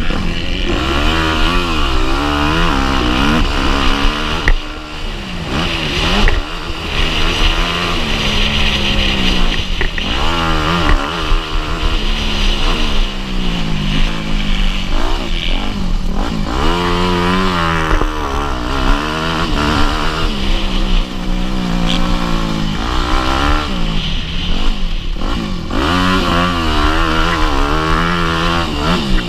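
Motocross bike's engine being ridden hard, its revs climbing and dropping again and again as the rider opens and closes the throttle and shifts, with brief drops in level around 4 and 6 seconds in.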